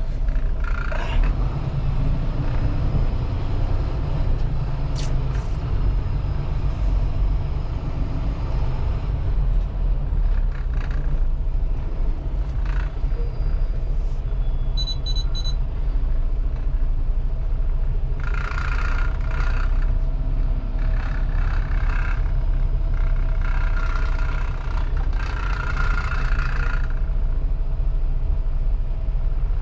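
Semi-truck's diesel engine running with a steady low rumble as the truck moves through the yard. A short run of high beeps sounds about halfway through, and several bursts of hissing noise come in the second half.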